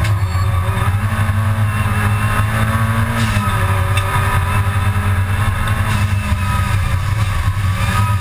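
Supercharged G60 engine of a Mk II Golf GTI race car, heard from inside the cabin under a loud, steady low drone. The engine note climbs until about three seconds in, drops away, then climbs again near the end.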